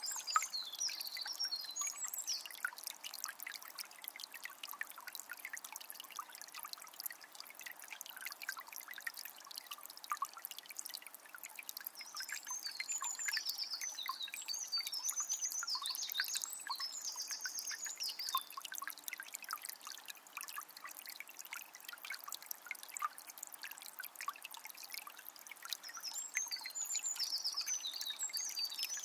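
Shallow forest river trickling and babbling steadily over stones. A songbird sings bursts of quick trilled phrases near the start, around the middle and again near the end.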